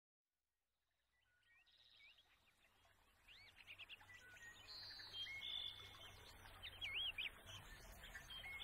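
Near silence, then from about three seconds in, faint songbirds chirping and whistling in quick, wavering phrases over a faint hiss.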